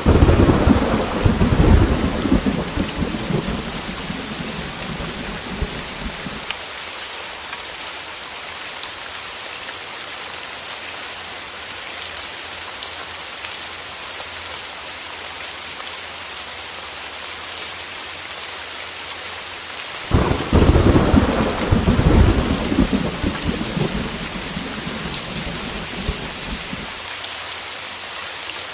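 Heavy rain on a window, with two rolls of thunder: one right at the start and another about twenty seconds in, each rumbling for several seconds before fading back into the steady rain.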